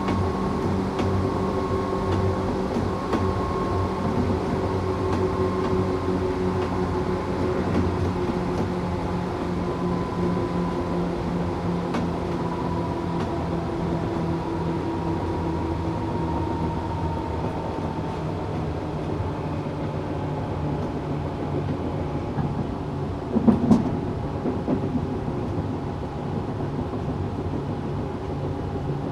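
Onboard running sound of a Tokyu 8500 series train with Toyo-made traction motors. The motor whine slowly falls in pitch over rumbling running noise as the train loses speed, with a brief clatter about three-quarters of the way through.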